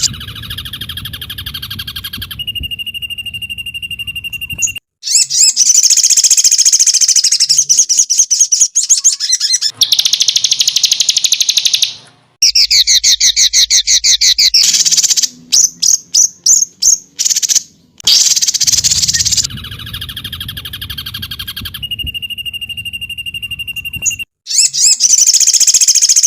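Songbird recording of loud, high-pitched chirps, rapid trills and sweeping whistles in quick phrases, broken by short pauses. It is an edited loop: the same passage comes round again about two-thirds of the way through.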